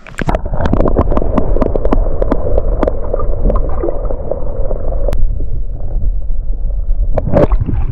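Water gurgling and sloshing right against the microphone, with many quick splashes through the first five seconds. It eases after that, and there are a couple more splashes near the end.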